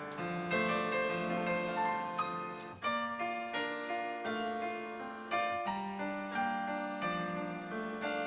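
Piano playing a slow melody over sustained chords, the notes struck every half second or so and left to ring.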